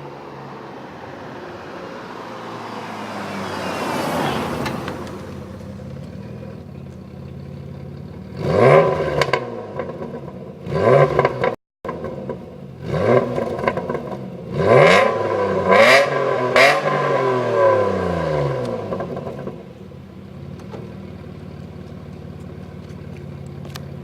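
Alfa Romeo 156 V6 with a Unicorse replica exhaust driving past. The engine revs up and drops back several times through gear changes in the middle of the clip, then fades away.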